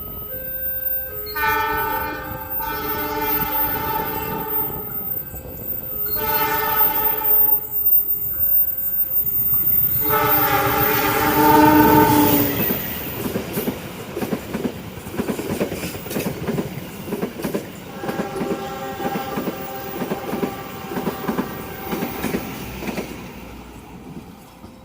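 Indonesian railway locomotive's horn blowing three long blasts, then the train passing with its wheels clacking over the rail joints. Short repeated warning tones sound at the start.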